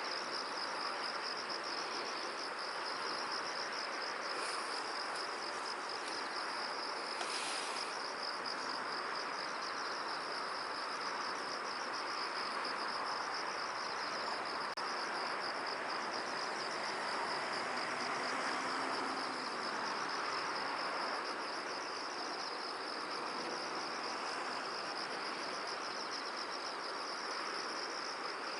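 Insects trilling in a steady, rapid high-pitched pulse, over a soft, even hiss of wind in the field.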